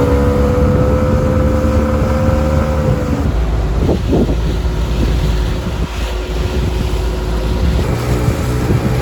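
Gladiator 9.9 hp outboard motor running under way, with wind and water noise from the boat's movement. Its note drops slightly about three seconds in.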